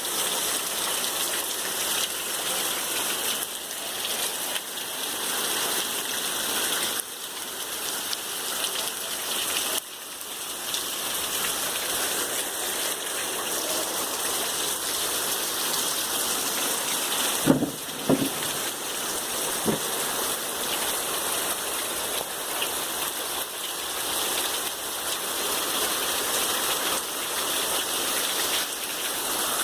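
Heavy rain falling in a steady hiss, with a few brief knocks about two-thirds of the way through.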